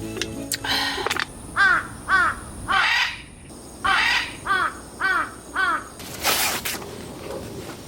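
A bird calling over and over, a run of about eight short arched calls at roughly two a second. A brief noisy rustle follows about six seconds in.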